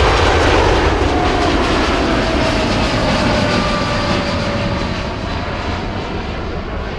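Jet airliner passing by on the runway, loudest at first and then fading as it moves away, its engine whine sliding down in pitch.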